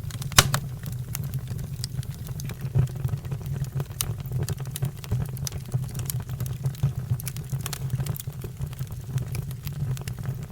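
Fire crackling, with irregular sharp pops over a steady low rumble of the flames; the loudest pop comes about half a second in.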